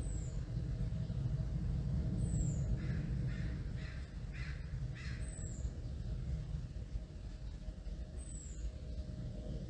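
A crow cawing about five times in quick succession near the middle, over the low rumble of a passing plane that slowly fades. A small bird gives a thin, high, falling note every few seconds.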